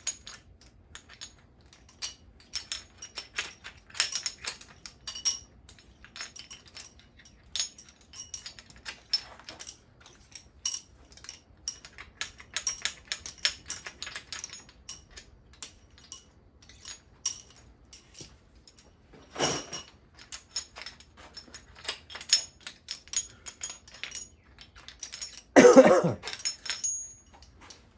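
Light metallic clinking and rattling of hand tools and steel engine bolts as stubborn bolts with caved washers are turned and worked loose. There is a louder clunk about twenty seconds in and a heavier one near the end.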